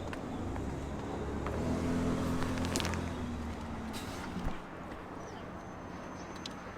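An engine runs with a steady low hum for about four seconds, then stops with a click.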